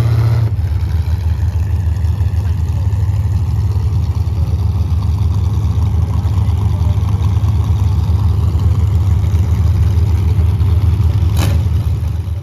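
A vehicle engine running steadily with a deep, fast-pulsing rumble. It eases down from a slightly higher pitch just after the start.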